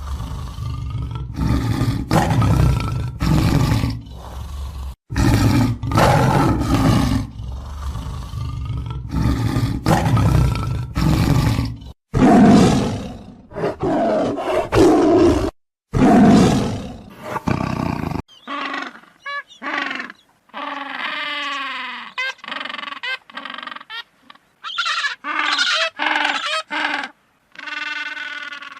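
Tiger roaring and growling in a run of repeated, loud roars. About two-thirds of the way through, the roars cut off and another animal's series of short, high, gliding squeaks and chirps follows.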